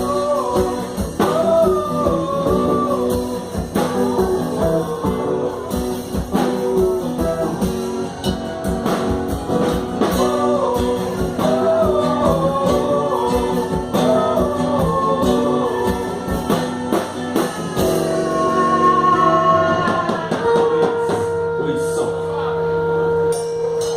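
Live band music: a singer's melody over guitar and a drum kit, the song winding down to a long held chord near the end.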